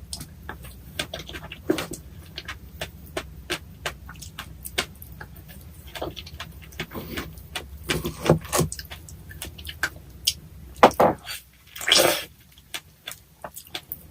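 Close-miked eating sounds: chewing and wet mouth clicks and smacks from eating fresh strawberries with Nutella and whipped cream, with a few louder bites or handling noises near the end.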